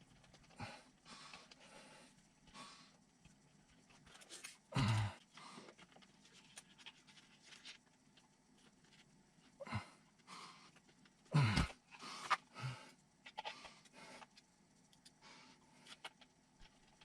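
Hands working on small plastic and metal kit parts: scattered light rustles and clicks, with a few louder knocks about five seconds in and again around ten to twelve seconds in.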